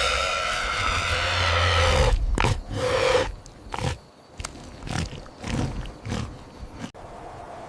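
An animal calling: one long, rough call of about two seconds, then a run of shorter calls that stops abruptly about seven seconds in.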